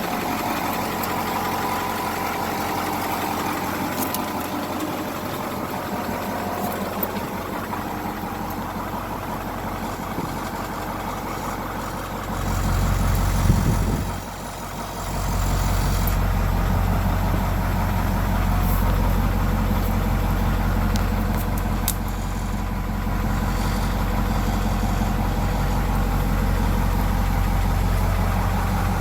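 1987 Ford F800 fire truck's engine idling steadily. About halfway through, its deep low rumble swells, dips for a moment, then carries on much louder.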